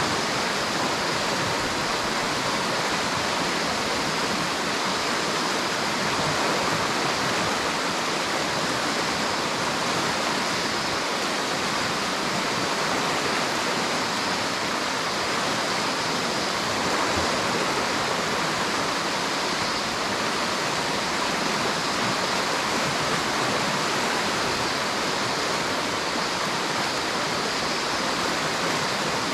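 River water rushing steadily, a dense even wash with no breaks or single splashes.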